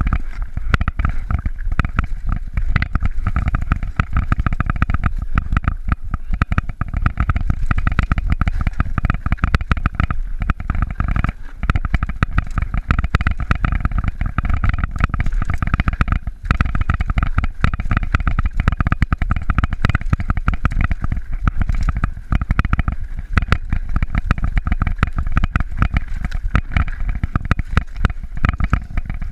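Mountain bike riding over a rough trail: a continuous low rumble with constant rapid rattling and clicking.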